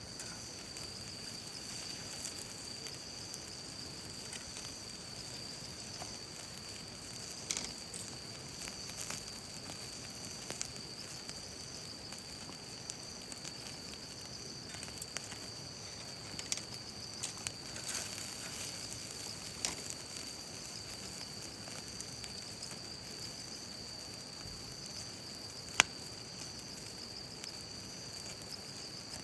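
Campfire in a fire pit crackling, with scattered sharp pops, the loudest one near the end, over a steady high chirring of insects.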